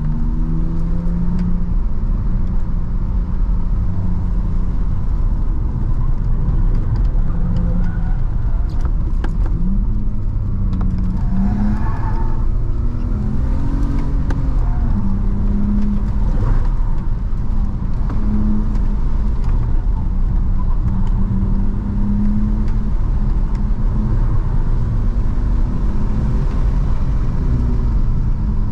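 BMW E46 325i's 2.5-litre straight-six heard from inside the cabin, its note rising and falling with the throttle while driving, over a steady low road and tyre rumble.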